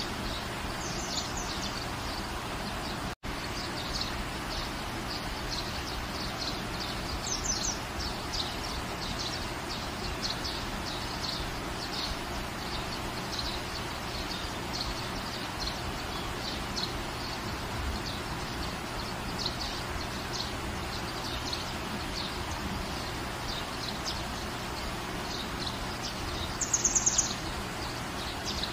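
Steady rain falling with an even hiss, while a bird chirps over and over in the background, with a louder run of quick chirps near the end. The sound cuts out for an instant about three seconds in.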